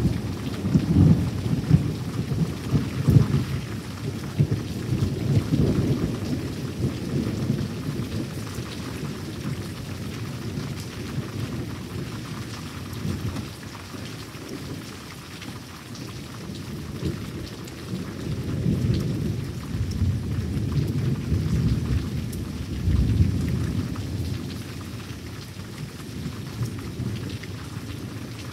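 Thunder rumbling in long rolls over steady rain, loudest over the first few seconds and again about twenty seconds in.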